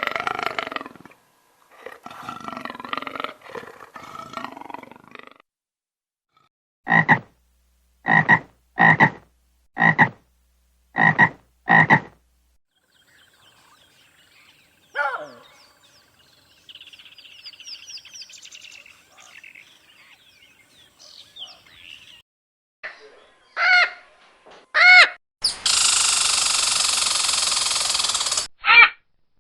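A run of different wild animal calls. A rough growl opens it, then a frog croaks six times at even intervals, about one croak a second, followed by quieter bird-like chirping, a few short pitched calls and a steady hiss near the end.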